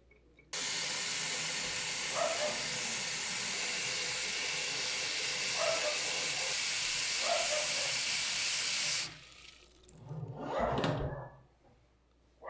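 Water running steadily from a tap, turned on about half a second in and shut off abruptly near nine seconds. A brief noise follows about a second and a half later.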